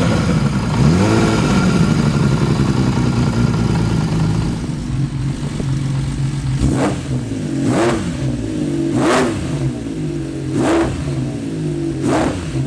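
Honda CBX inline-six motorcycle engine running at idle, revved once about a second in. From about halfway it takes a series of quick throttle blips, roughly one every second or so, each rising sharply and dropping back to idle.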